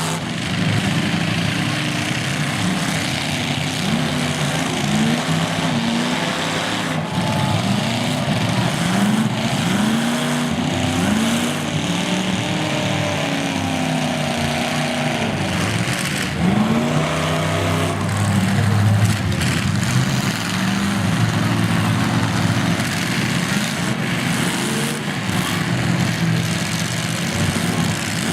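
Demolition derby car engines revving up and falling back again and again, with a couple of sudden knocks among them.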